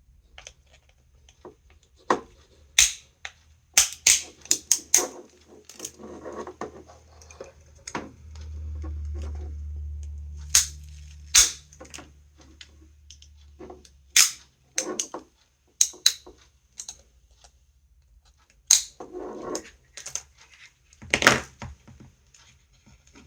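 Scattered sharp clicks and snaps of hard plastic and cured silicone as a trolling motor control board is pried out of its sealed housing, with a low rumble for a few seconds in the middle.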